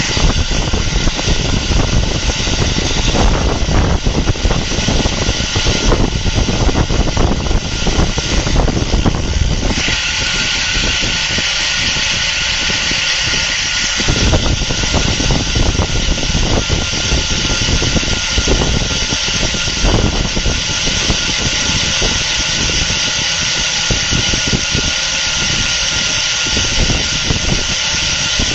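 Wind rushing over the microphone of a camera on a road bike being ridden, with rumbling road and tyre noise underneath; the hiss grows stronger about ten seconds in.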